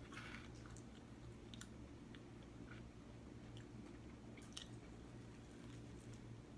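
A person chewing a mouthful of pizza, faint, with a few soft mouth clicks, over a low steady hum.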